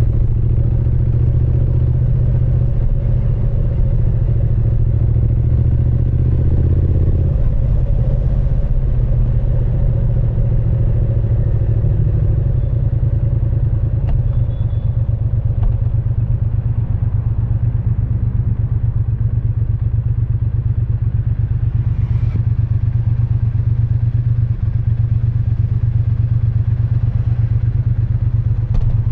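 Triumph Speed Twin 900's parallel-twin engine and exhaust running under way, a steady deep note. About seven seconds in the engine note drops and changes, then runs steadily again.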